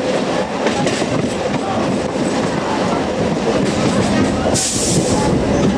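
Train running on the rails: a steady rumble with wheel clatter, and a short burst of hiss about three-quarters of the way through.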